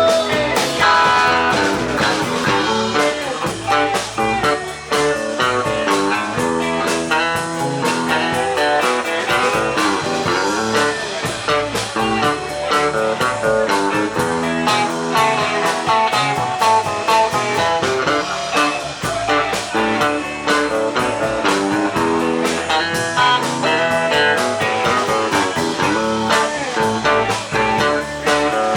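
Live rock band playing an instrumental jam: an electric lead guitar solo over rhythm guitar, bass and drums.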